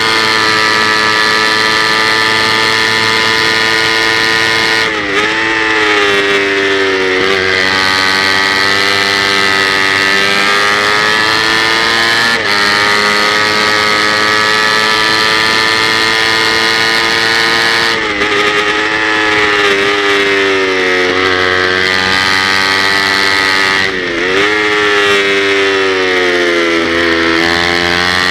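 Kawasaki Ninja 250's parallel-twin engine revving hard on track, held high in the rev range with a quick gear change about twelve seconds in. Three times the pitch drops in steps through downshifts and then climbs again as the bike accelerates.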